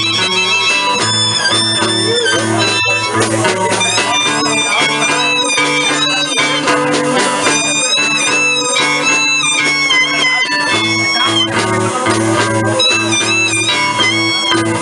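Live blues music: a harmonica plays a lead line of bent, wavering notes over guitar accompaniment.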